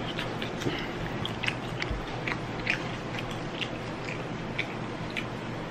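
A person chewing a bite of cooked lobster meat close to the microphone: soft, irregular wet mouth clicks, about two a second, over a faint steady hiss.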